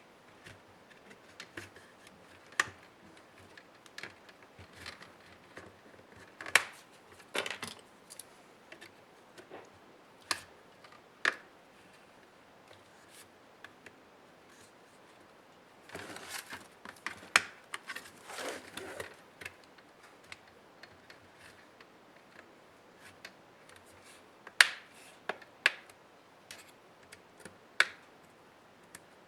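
Irregular small clicks, taps and brief plastic-and-metal scraping from hands and small tools taking apart an HP ProBook 430 G6 laptop, with two short bouts of scraping about two-thirds of the way through.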